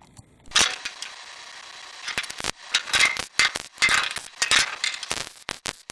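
Electric welder's arc on steel, starting abruptly about half a second in with a steady hiss, then crackling and sputtering in irregular pops as a weld bead is laid.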